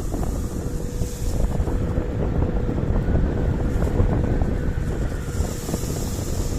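Wind buffeting the microphone on a moving KuKirin G2 electric scooter, a steady low rumble, with a thin steady whine from the scooter's motor underneath.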